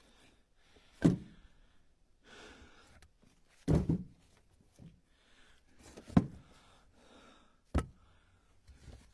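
Split ash firewood pieces being set onto a stack in a pickup truck bed: four dull wooden thunks a second or two apart.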